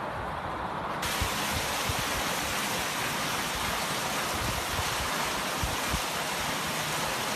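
Water fountain running: a steady rush of falling, splashing water that turns brighter and a little louder about a second in.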